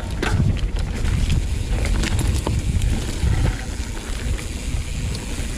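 Mountain bike riding fast down a dirt trail: a heavy rumble of wind and ground on the microphone, with a steady run of sharp clicks and knocks from the bike rattling over the rough ground.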